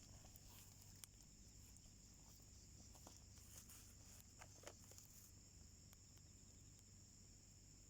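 Faint crackling of a small wood fire in a homemade wood stove, a few soft pops scattered through, over steady high insect chirring.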